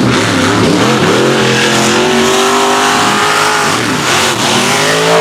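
Mega truck's engine revving hard as it races through the mud, its pitch swinging up and down and then held high for a couple of seconds in the middle.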